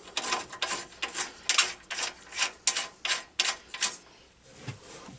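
Hand-tool work on a garden tractor: a run of short rasping, ratchet-like strokes, about three a second, that stop about four seconds in.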